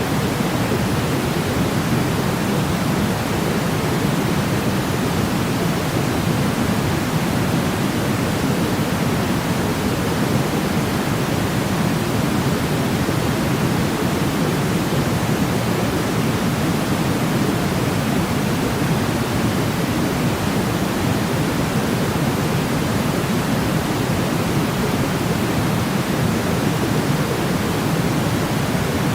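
Steady pink noise, a constant hiss weighted toward the low end, with no change in level.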